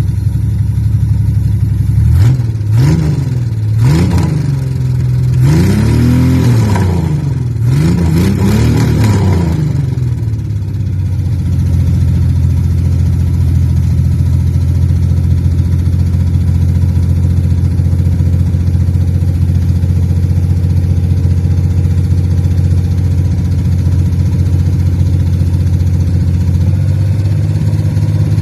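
Car engine just after starting, revved up and down four times in the first ten seconds, then settling into a steady idle. It is running on a worn distributor cap and rotor button that the owners say need replacing, and they blame the bad cap for its popping.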